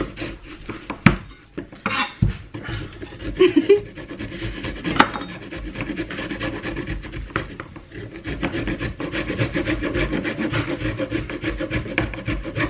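Vegetables being grated by hand on a metal grater: rapid, even rasping strokes, one after another.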